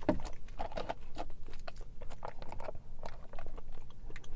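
Close-miked chewing of tapioca boba pearls: an irregular run of soft, wet clicks and squishes, several a second.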